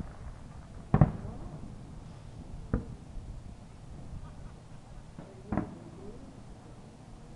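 Fireworks shells bursting: three separate booms, the first about a second in and loudest, the others about three and five and a half seconds in.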